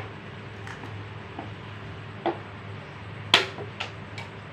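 A few short, sharp clicks and taps over a steady low hum; the loudest click comes about three and a half seconds in.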